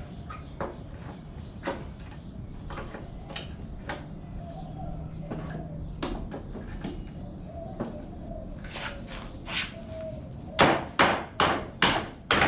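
Hammer striking pallet wood: scattered light taps and knocks, then, about ten seconds in, a quick run of loud, evenly spaced blows, about two and a half a second.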